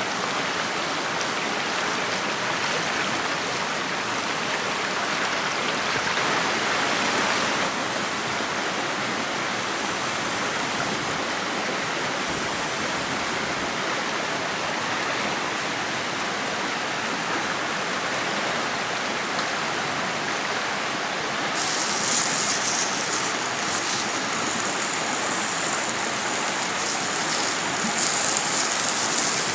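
Steady rushing noise like running water. About two-thirds of the way through, a louder crackling hiss joins in and keeps going.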